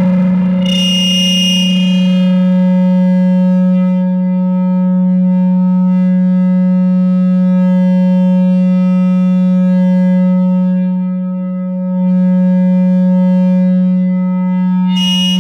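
No-input mixer feedback drone from a two-channel mixer and effect pedal: a steady low tone with fainter higher overtones held over it. A brief burst of harsh high-pitched noise comes in about a second in, and again at the very end. The drone dips briefly in level about three-quarters of the way through.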